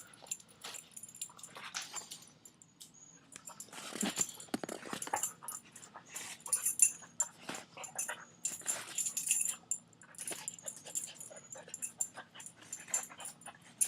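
A dog attacking and tearing up paper towels: irregular ripping and rustling of paper, with the dog's own noises mixed in. The busiest tearing comes about four seconds in and again from about six to nine and a half seconds.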